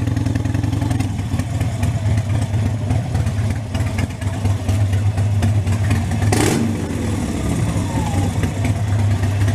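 Harley-Davidson Sportster V-twin engine running steadily. A brief rushing noise cuts in about six and a half seconds in.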